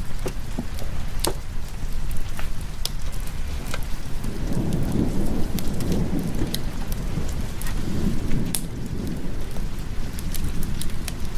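Steady rain with a low rumble of thunder that swells about four seconds in and rolls on for several seconds, while a wood fire gives scattered sharp crackles.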